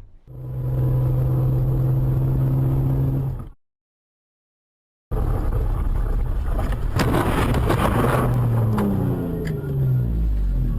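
A vehicle's steady engine drone and road noise, cut off by a brief silence, then more driving noise broken about seven seconds in by a car crash: a burst of impacts and clatter, followed by an engine note falling in pitch.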